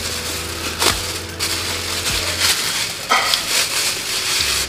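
Close crunching of fried, breadcrumb-coated chicken being chewed, with the crinkle of thin disposable plastic gloves being handled and pulled off near the end.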